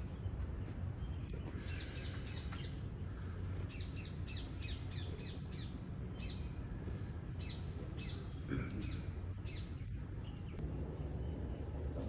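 Birds chirping in quick runs of short, high calls, over a steady low rumble.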